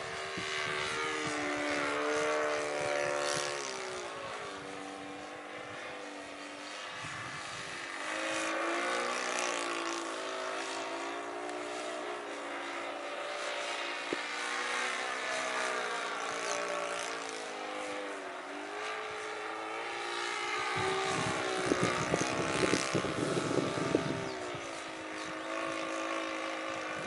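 Saito 82 four-stroke glow engine of a Yak 55M model airplane running in flight, its pitch gliding up and down as the plane passes and the throttle changes. A low rumbling rush of noise joins it about two-thirds of the way through.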